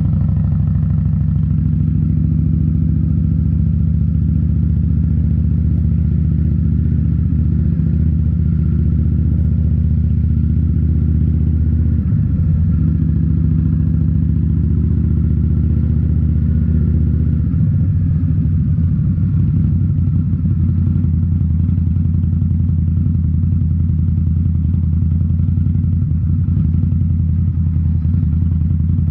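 2018 Indian Scout Bobber's V-twin engine running through Rinehart slip-on mufflers while riding, a steady deep exhaust note that shifts about twelve seconds in and again about eighteen seconds in, as with a gear or throttle change.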